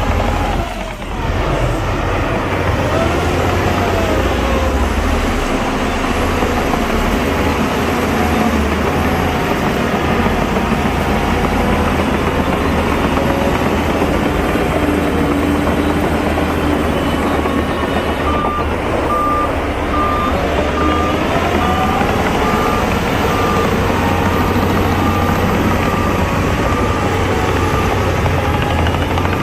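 Heavy diesel engines of earthmoving machines running steadily, with a reversing alarm beeping at an even pace from about two-thirds of the way in as a machine backs up.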